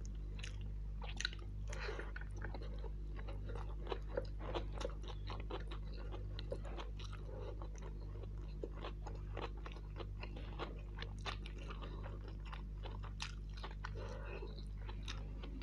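Close-miked chewing and mouth noises of a person eating mutton kofta biryani by hand: many small wet clicks and smacks throughout, over a steady low hum.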